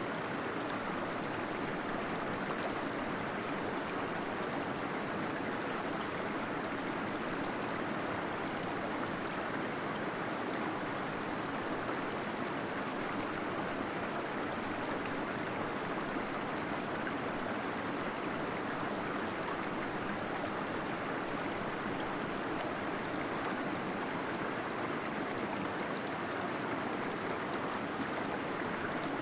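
Small waterfall inside a cave, flowing steadily: a constant, even rush of falling water.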